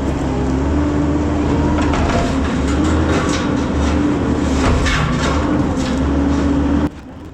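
Heavy diesel construction machine running under load, its engine note wavering, with scattered metallic clanks and knocks; it cuts off abruptly near the end.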